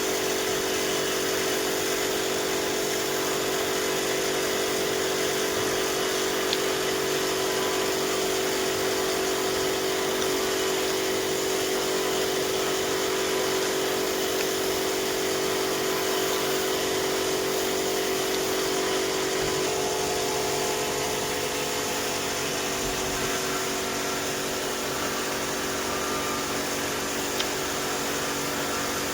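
An electric power tool's motor running steadily without a break, a constant hum whose pitch shifts slightly about two-thirds of the way through.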